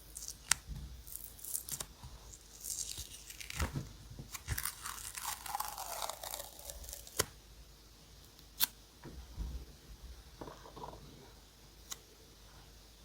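Paper being torn and handled by hand: a scratchy tearing stretch in the middle that drops in pitch as it goes, with a few sharp clicks and a short rustle later on.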